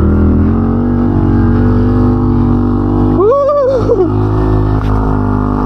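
A 110cc pit bike's small single-cylinder engine running at a steady speed while being ridden. About three seconds in, a short pitched sound rises and falls over it.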